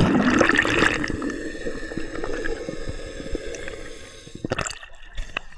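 Sea water splashing and gurgling close to the microphone as a person swims. It is loudest at the start and dies down, with another short splash about four and a half seconds in.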